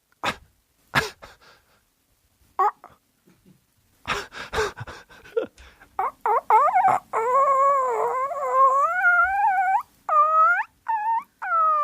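A man's voice making a high, whining animal-like cry: a few sharp clicks, then about halfway through long drawn-out wavering wails that rise and fall, broken by short pauses.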